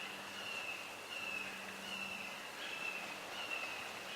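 Swamp insects droning in a steady, high, slightly wavering chorus, faint against background hiss.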